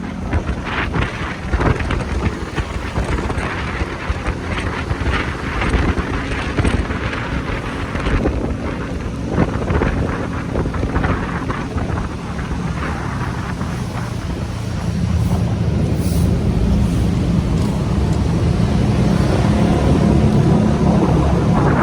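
Motorcycle engine running under way, with wind buffeting the microphone. The engine grows louder about two-thirds of the way through.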